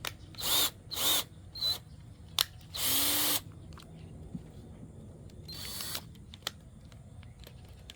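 Power drill driving dryer vent cleaning rods, run in forward in a few short trigger pulls that spin up with a brief whine and stop, the longest about three seconds in. Forward rotation keeps the threaded rod sections from unscrewing.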